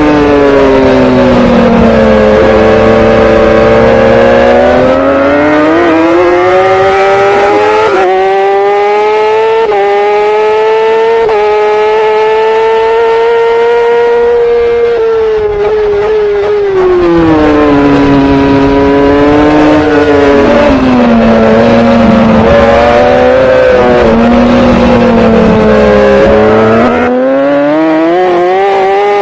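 Racing superbike engine at full race pace, loud throughout. It drops in pitch early as the bike slows for a corner, climbs through several quick upshifts, holds high, then slows and runs low again before picking up near the end.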